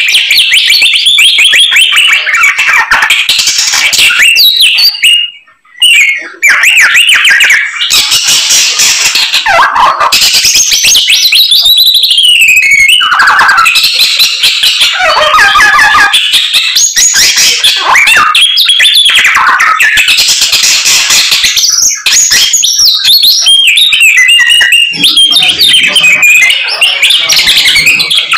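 A samyong songbird singing loudly in full song: a fast, unbroken stream of varied whistles, trills and chatter, strung with learned mimicked phrases. There is one brief pause about five seconds in.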